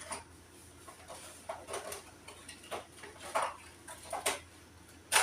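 Small household items being handled and sorted: irregular light clicks, taps and rustles, with a sharper knock at the very end.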